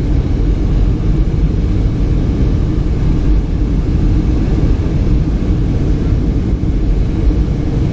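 A steady, loud low rumble that runs on without breaks or sudden events.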